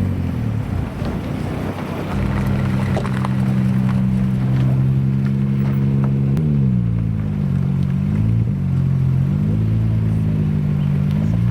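Car engine held at steady revs for about four seconds, then the revs drop, waver and climb again near the end.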